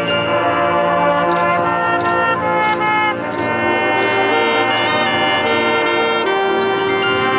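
High school marching band playing: brass chords with drum hits in the first half, moving to a long held brass chord near the end.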